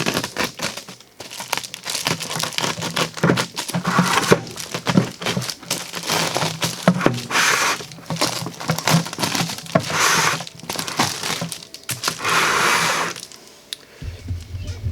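Sheet of reflective insulation crinkling and crackling as it is handled and cut with a sharp blade pulled along it. Several longer strokes of the cut stand out, each about a second long, and the sound dies down near the end.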